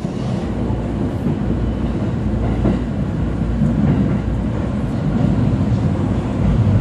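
Steady rumble of a JR local train heard from inside the carriage as it runs on the rails.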